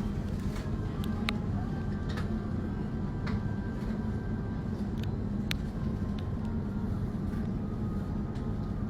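A steady low hum, with scattered sharp clicks about once a second.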